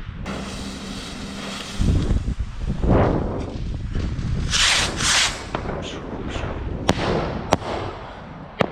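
Fireworks going off: deep booms about two and three seconds in, two loud hissing bursts around the middle, then several sharp single bangs near the end.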